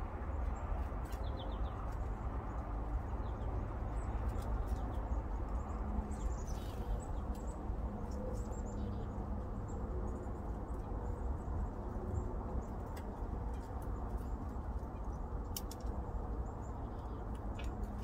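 Small birds chirping now and then in short, high calls, with a few sharp clicks, over a steady low outdoor rumble.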